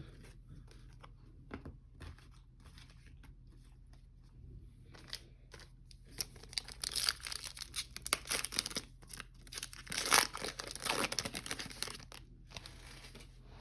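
A sports card pack's plastic wrapper being torn open and crinkled. It starts with a few light clicks and handling noises, then about five seconds in turns into several seconds of dense crackling and tearing, loudest a couple of seconds before the end.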